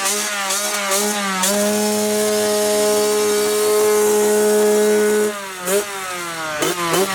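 Dirt bike engine revving: a few quick rises and falls, then held at steady high revs for about four seconds before dropping off and blipping up briefly a few times near the end.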